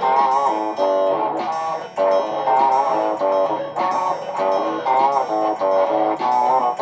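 Layered, looped electric guitar parts playing together: a melodic line of wavering, bent notes over a repeating low bass figure.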